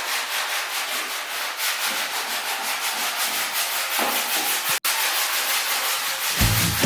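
Sanding on a car's bodywork, a steady rasping with an even stroke rhythm, broken by a brief gap about five seconds in. Music with a beat comes in near the end.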